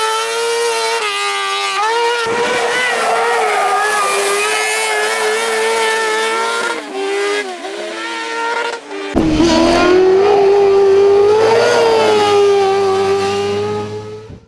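Kartcross car's 600cc high-revving engine screaming at high rpm, its pitch dropping and wavering through lifts and gear changes in the middle. It then climbs back to a sustained high scream and fades out near the end.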